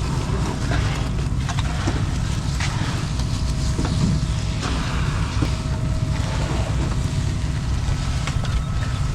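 Heavy construction machinery's engine running steadily with a low rumble, with scattered clicks and knocks over it.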